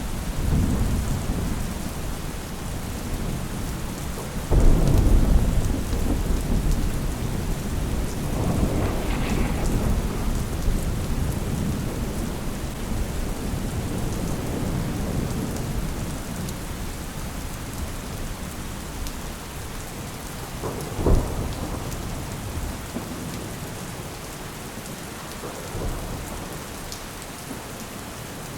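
Steady rain falling, with a rumble of thunder that breaks in suddenly about four seconds in and rolls away slowly over the next ten seconds or so. A single sharp crack comes about twenty-one seconds in.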